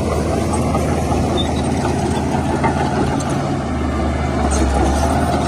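Diesel engine of heavy earthmoving machinery running steadily, its note shifting lower about three and a half seconds in.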